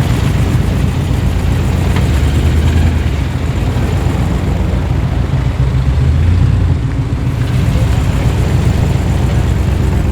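A car engine running with a deep low rumble as the car rolls in at low speed.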